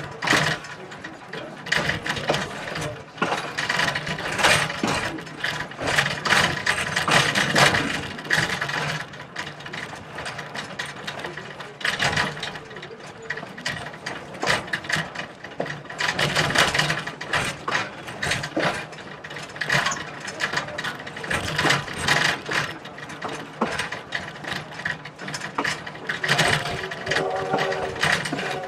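Heritage railway train rattling and clanking as it rolls along the track, a dense run of irregular clicks and knocks from the wheels, couplers and car body. Near the end a held chord of several steady tones sounds, the train's whistle.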